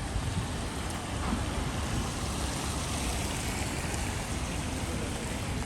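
Steady rain, with wind gusting on the microphone as a low, uneven rumble.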